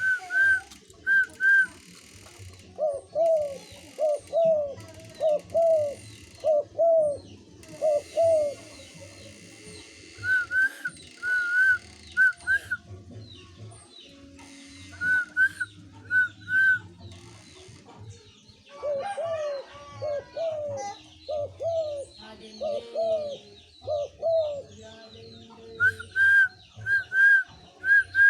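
Pet spotted dove cooing in runs of repeated 'kuh' notes. The runs alternate with groups of three short, higher whistled 'kuh' notes, which the dove answers.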